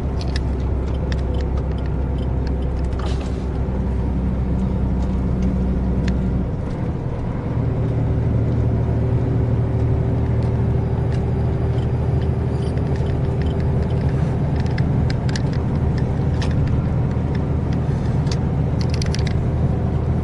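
Semi truck's diesel engine running under way, heard inside the cab as a steady low hum; about six and a half seconds in the engine note shifts to a different pitch. Faint scattered clicks sound over it.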